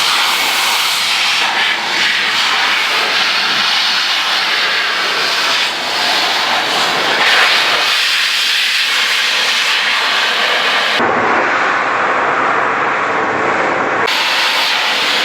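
Air blower blowing rinse water off a washed car engine bay: a loud, steady rush of air that keeps going with only small dips, its highest hiss cut off for about three seconds late on.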